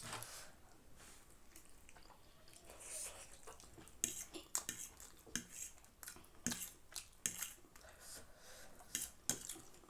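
Cutlery lightly clicking and scraping against plates while spicy noodles are eaten. It is a faint scatter of short clicks that gets busier about halfway through.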